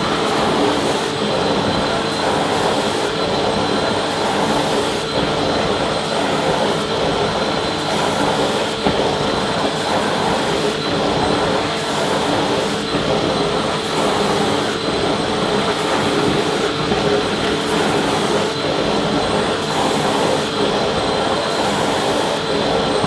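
Vacuum cleaner running steadily: a continuous rushing noise with a steady whine over it.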